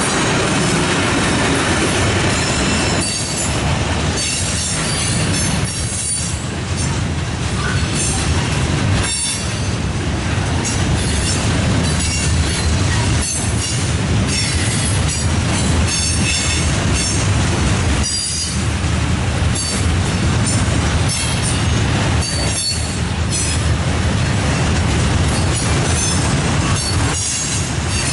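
Freight train cars (tank cars, hoppers and gondolas) rolling past close by: a continuous heavy rumble with irregular clacks from the wheels over the rail joints and some faint high-pitched wheel squeal.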